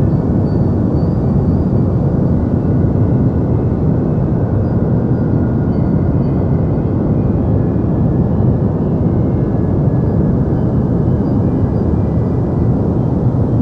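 Steady, unbroken deep noise of a sleep-sound track, its weight in the low end so that it rumbles more than it hisses, with faint thin tones flickering high above it.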